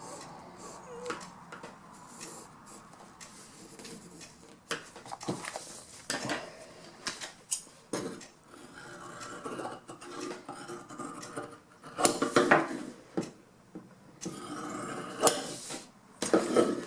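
Upholstery cover pieces and small tools being handled on a work table: rustling and rubbing of the material, with scattered taps, clicks and knocks. The knocks are loudest about twelve seconds in and again near the end.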